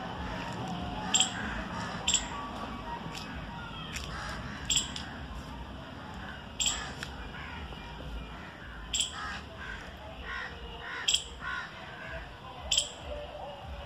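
Crows cawing and other birds calling, over sharp brief clicks every second or two.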